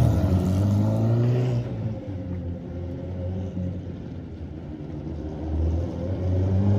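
Mini truck powered by two Suzuki Hayabusa motorcycle engines running and driving. The engine sound is louder at first, fades through the middle and comes back up near the end.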